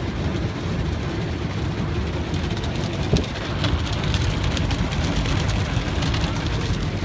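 Steady rumble heard from inside a car going through an automatic car wash, with a patter of water spray on the car's body from about two seconds in. A single thump comes a little after three seconds.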